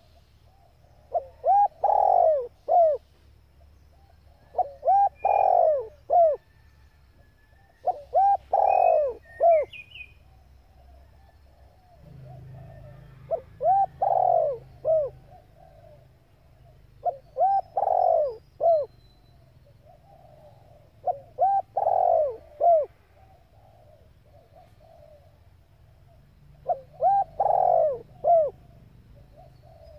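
Hen spotted dove cooing: seven repeated multi-note coo phrases, one every three to four seconds, used as a lure call to excite male decoy doves. A few faint higher chirps from a small bird sound in the first third.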